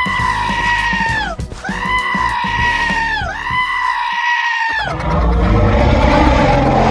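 Cartoon dinosaur cry sound effect: three long calls in a row, each held level and dropping in pitch at its end. From about five seconds in, a loud rushing noise with a low rumble takes over.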